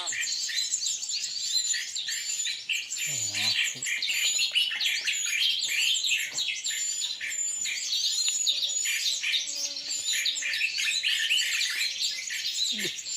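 Dense chorus of small birds chirping and twittering over one another, with a short high whistled note repeating about once a second.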